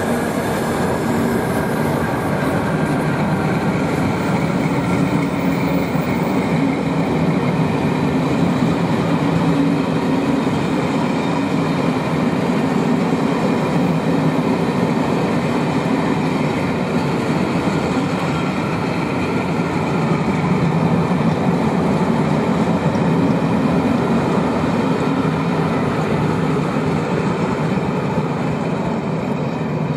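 A rake of passenger coaches rolling slowly past on the rails, a steady rumble of wheels on track that starts to die away at the very end as the last vehicle goes by.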